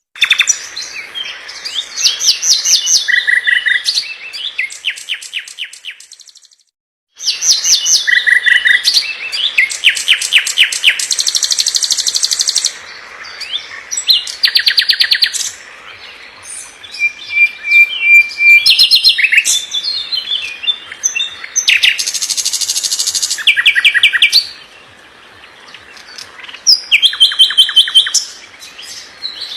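A songbird singing a fast, varied song of rapid repeated notes, trills and buzzy phrases in short bursts with brief pauses, of the dense, quick kind used as a tutor song for white-rumped shamas. The sound cuts out completely for about a second, around six seconds in.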